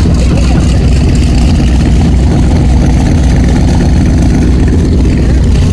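Car engine idling loudly and steadily, with a fast, even low pulse.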